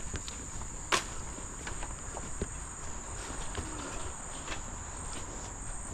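Steady high-pitched insect chorus, with scattered light clicks and one sharp knock about a second in.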